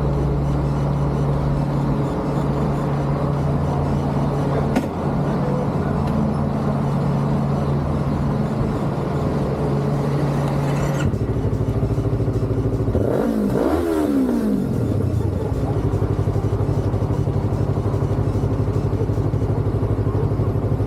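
Yamaha motorcycle engine idling steadily, revved once a little past the middle with the pitch rising and falling back, then settling into idle again.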